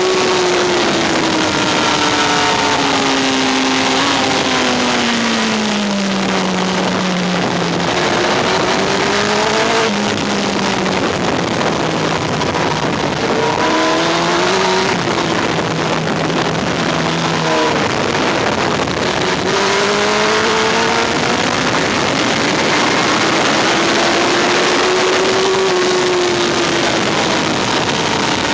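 Yamaha R1's inline-four engine heard from on board at track speed under heavy wind rush. Its pitch falls over the first several seconds as the bike slows, then rises in several short climbs broken by gear changes, and in one long climb late on before dropping off again near the end.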